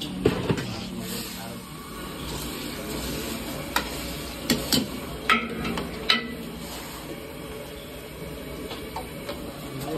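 Chicken pieces frying in oil in a metal wok, a steady sizzle, with a metal ladle clinking and scraping against the pan several times around the middle.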